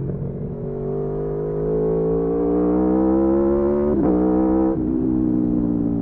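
Aprilia Tuono V4 motorcycle engine pulling hard under acceleration, its pitch rising steadily for about four seconds. Just before the end the pitch drops sharply with an upshift, and the engine then pulls on at a lower pitch.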